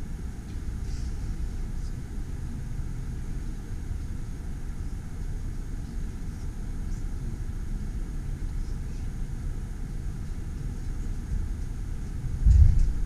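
Steady low rumble inside a train carriage standing at a train-ferry loading yard, with one heavy low thump near the end as the carriage jolts.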